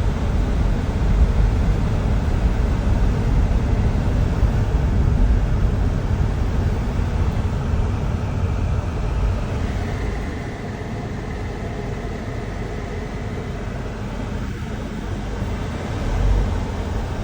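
Road and engine noise heard inside a moving car: a steady low rumble that eases off and grows quieter about ten seconds in.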